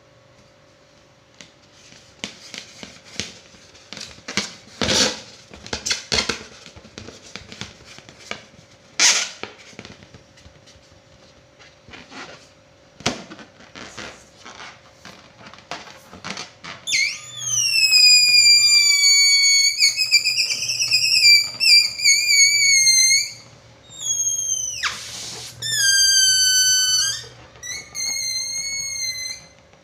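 Rubber balloon handled with short squeaks and rubs, then air let out through its stretched neck so it squeals in wailing, wavering notes that glide downward, with a brief rush of air partway through.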